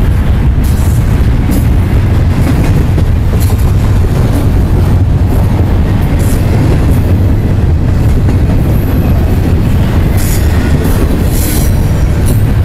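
Double-stack intermodal freight train cars rolling past close by: a loud, steady rumble of wheels on rail, with brief high-pitched wheel squeals that grow stronger near the end.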